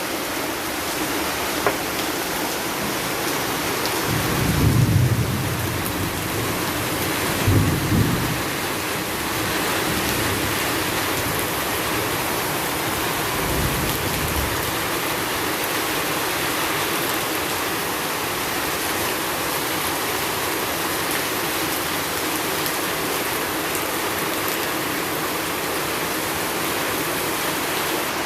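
Heavy rain pouring down steadily in a rain-and-wind storm. Short low rumbles come about four and eight seconds in, the loudest moments, with a fainter one near fourteen seconds.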